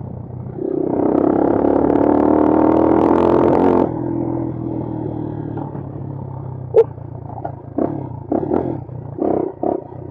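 Bashan Brozz 250 dual-sport motorcycle's single-cylinder engine revving hard under acceleration for about three seconds, its pitch climbing slightly, then cutting back suddenly to a lower running note as the throttle closes. Near the end, a run of sharp knocks and clunks as the bike rides over rough trail.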